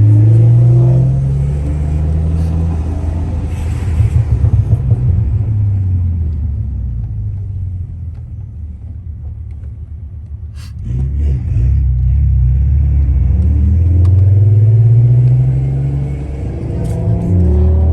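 Big-turbo car's engine pulling hard, its pitch climbing, then dropping off the throttle into a quieter coast, with choppy bursts about four seconds in and a sharp burst just before it pulls again. It builds and climbs once more near the end, with a short dip as it shifts.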